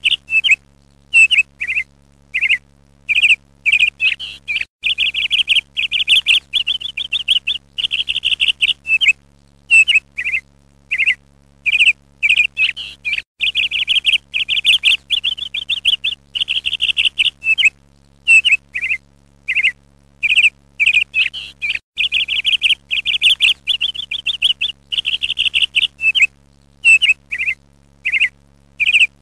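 A small songbird chirping and twittering in quick high runs broken by short pauses, over a faint steady low hum.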